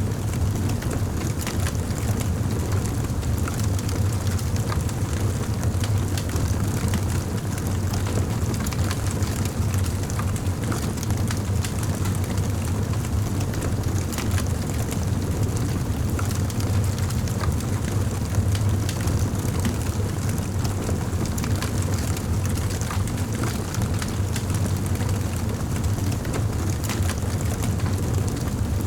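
Wood fire burning in a fireplace, crackling with many small sharp pops over a steady low rumble.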